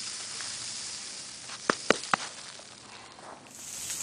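Steady hiss of heavy sleet pellets falling and ticking on the ground, with three sharp clicks about halfway through; the hiss gets louder and brighter near the end.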